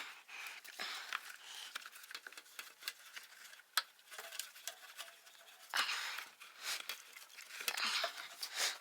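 Hands working loose small plastic parts: scattered light clicks and taps with rustling. There is one sharper click about four seconds in and stretches of rustling near six and eight seconds.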